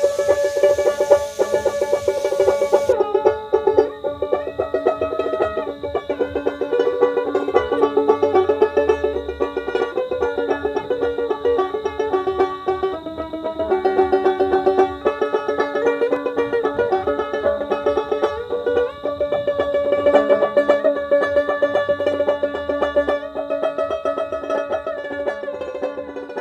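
Dotara, the skin-bellied fretless Bengali folk lute, played with a fast picked melody of quickly repeated notes.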